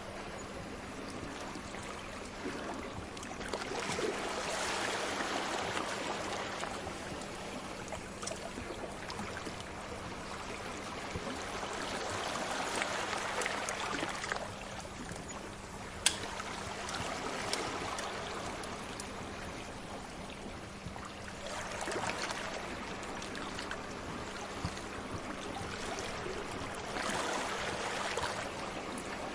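Sea waves washing ashore, swelling and ebbing several times, with a few sharp pops from a crackling wood fire, the loudest about halfway through.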